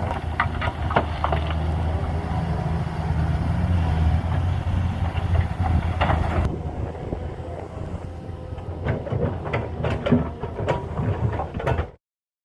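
An engine running steadily with a low hum, over scattered knocks and rattles; the sound stops abruptly near the end.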